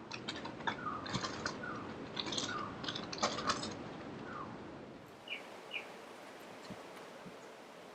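Small birds chirping in short falling notes, with light clicks and taps mixed in during the first half. Near the end there are two more brief chirps.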